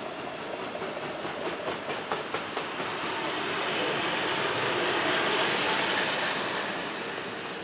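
Train passing on the line: a quick run of wheel clicks over the rail joints in the first few seconds, then a rush of wheel and rail noise that swells past the middle and starts to fade near the end.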